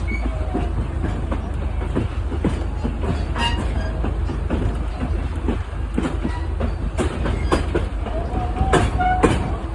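Narrow-gauge train heard from aboard: a steady low rumble with wheels clicking over the rail joints. A brief squeal comes about eight seconds in.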